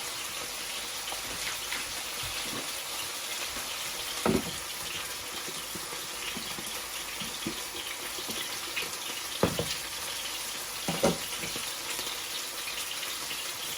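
Boiled potatoes frying in butter in a pan, a steady sizzle, with a few sharp knocks of a utensil against the pan.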